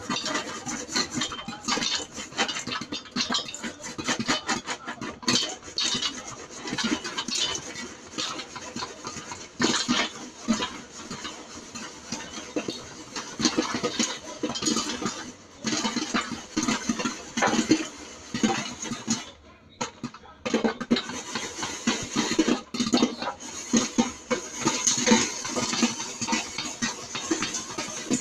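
Covered pan of popcorn shaken on the stove: the kernels rattle against the metal and pop in a dense, irregular clatter, with a brief pause a little past the middle.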